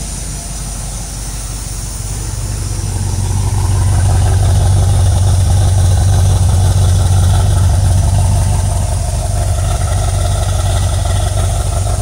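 1973 Corvette Stingray V8 engine running steadily at the exhaust tips, with an even pitch throughout. It grows louder from about two seconds in, then eases slightly near the end.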